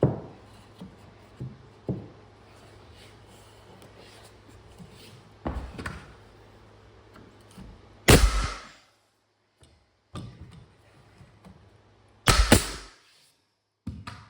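Nail gun firing nails into wall framing: sharp shots, the loudest about eight seconds in and a close double shot about twelve seconds in, with lighter knocks of wood being handled before them.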